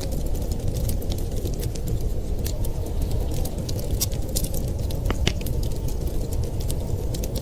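Wood fire crackling in a fireplace, with many small sharp pops and a couple of louder snaps about five seconds in, over a steady low rumble of winter wind.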